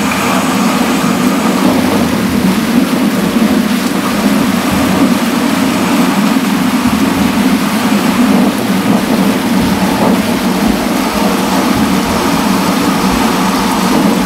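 Heavy rain pouring steadily onto a wet paved terrace and bamboo leaves, a dense unbroken hiss with a strong low rush.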